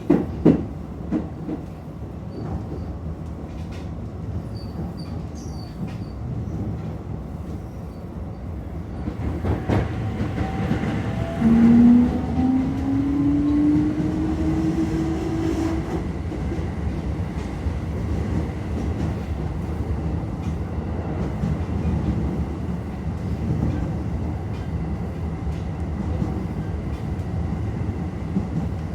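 Toei 10-300 series electric train running on the Keio Line, with steady wheel-and-rail rolling noise and a few sharp clicks over rail joints near the start. About 11 seconds in, the whine of its Mitsubishi IGBT-VVVF inverter and traction motors rises in pitch for about four seconds, then cuts off suddenly.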